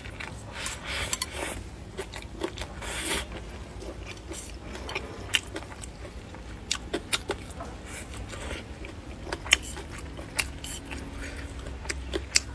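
Close-miked eating: chewing and wet mouth smacks over mouthfuls of rice and fried meat, with scattered sharp clicks, the loudest about nine and a half seconds in.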